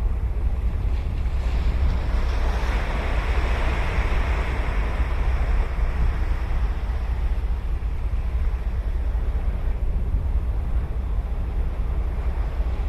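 Ocean surf: a wave breaks and washes up with a swelling hiss about two seconds in, then eases back into the steady wash of the sea, over a constant low rumble.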